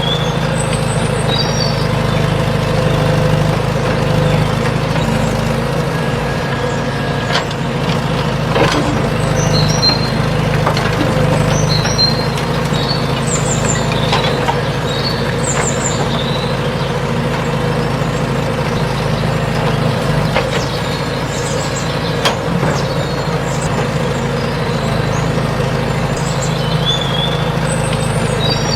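An engine running steadily at an even speed, with a few sharp clicks and knocks now and then.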